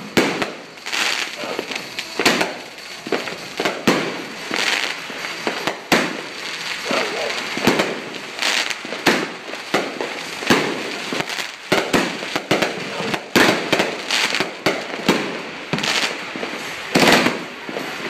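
Consumer aerial fireworks cake firing: an irregular run of sharp bangs and pops, about two a second, with crackling between them as shots launch and burst.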